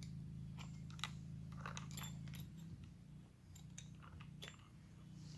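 Faint scattered clicks and light rattling from handling a new saw chain and chainsaw parts, over a steady low hum that drops about halfway through.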